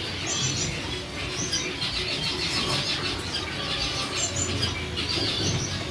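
Several caged canaries chirping together: many short, high notes in quick runs that overlap without a break.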